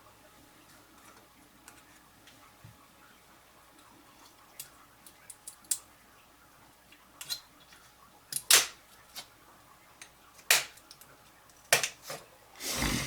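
Light clicks and clacks of hard 3D-printed plastic, like the jointed segments of an articulated printed lizard knocking together as it is handled. Quiet at first, the clicks come sparsely and then more often and louder, with a longer rattle near the end.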